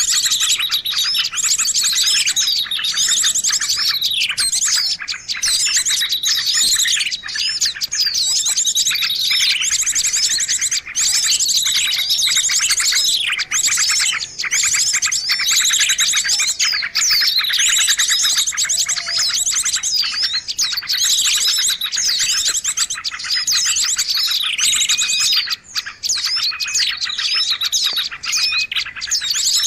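A dense, unbroken chorus of many small birds chirping and trilling at once, their calls overlapping with rapid rising and falling notes. It is a noisy 'pikat' bird-lure recording meant to draw in birds of all kinds.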